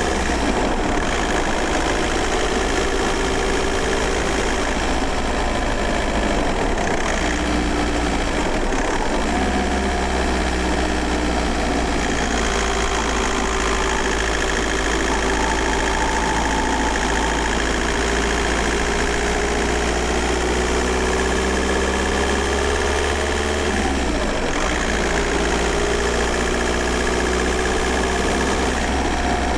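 Volkswagen Golf Mk4 4motion's 1.9 TDI four-cylinder turbodiesel running steadily, heard from inside the car. Its pitch drifts slowly up and down as engine speed changes, with a few brief changes in the low rumble.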